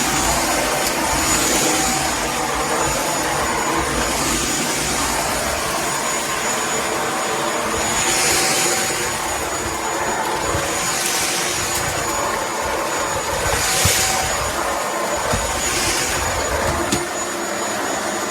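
Shark PowerDetect corded stick vacuum running on a rug, with a steady high whine over its motor noise. Its hiss swells every two to three seconds as it is pushed back and forth over the rug.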